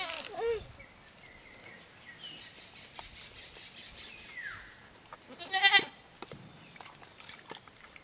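Goats bleating: a short call about half a second in, then a loud, wavering bleat at about five and a half seconds.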